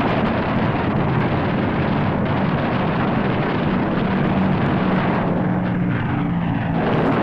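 Propeller aircraft engine drone, loud and steady, with a low hum under a rushing noise.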